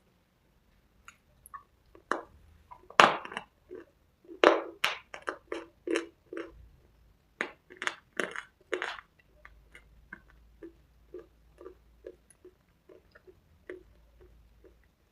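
Close-up biting and chewing of crunchy cubes with red slate paste. A few loud, sharp crunches come in the first half, then quieter, even chewing strokes about twice a second.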